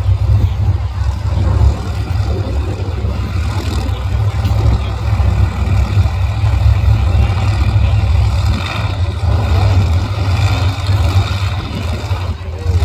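Drag race cars' engines idling with a loud, steady low rumble.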